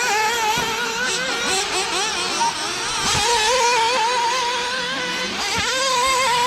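Several 1/8-scale nitro RC buggy engines running at high revs together. Their high-pitched whine wavers up and down constantly as the drivers work the throttles.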